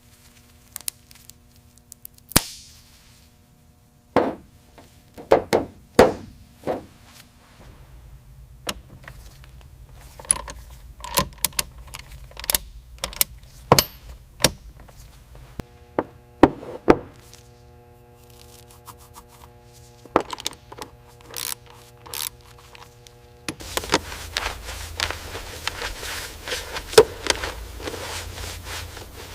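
A series of irregular knocks and thunks, like hand tools and parts being handled during work on a car. A faint steady hum runs under parts of it, and the last six seconds are busier and noisier.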